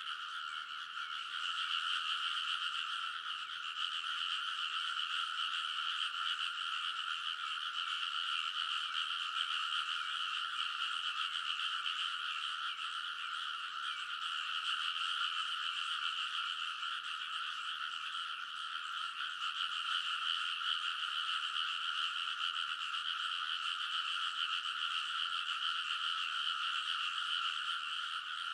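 A large chorus of rice-paddy frogs calling all at once, their croaks merging into one dense, unbroken wall of sound that holds steady throughout.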